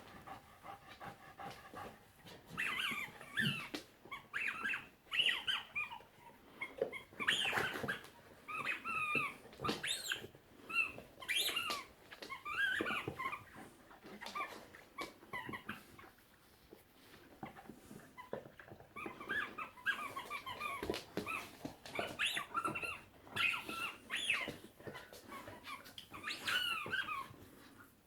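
Dog making high, squeaky whining sounds, many short squeals that bend in pitch, like a squeaky toy mouse.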